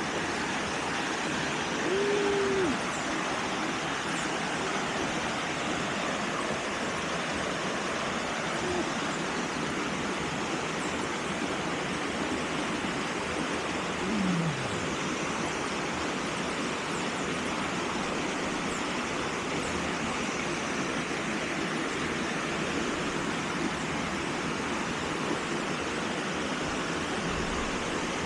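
Steady rush of a waterfall pouring into a pool. A short voice sound comes about two seconds in, and another, falling in pitch, about halfway through.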